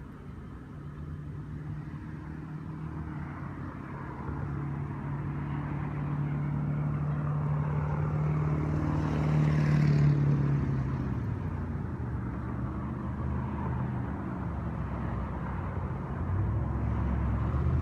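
A motor vehicle passing by: its engine hum grows louder to a peak about ten seconds in, then drops in pitch and fades, and another lower hum builds near the end.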